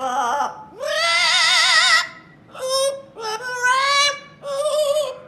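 A parrot singing in a warbling, operatic way: about five held notes with a fast vibrato, the longest lasting over a second.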